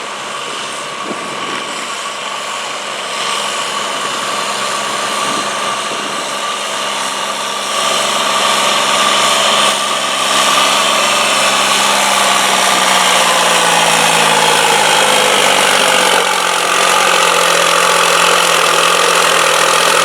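Diesel garden tractor engine running hard under pulling load, growing louder over the first half and slowly dropping in pitch over the second half as it is pulled down by the sled.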